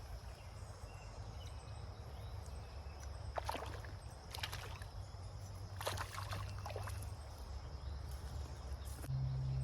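Water splashing in a creek, several short splashes about three to seven seconds in, as a hooked fish is brought in by hand, over a steady high insect drone. A low steady hum comes in near the end.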